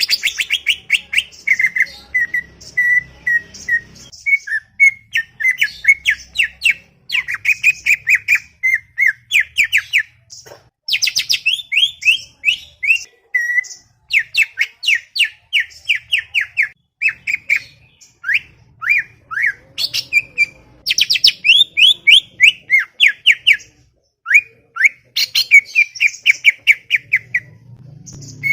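Cucak ijo (green leafbird) singing a fast, chattering song: rapid runs of sharp chirps and slurred notes, many a second, broken by brief pauses.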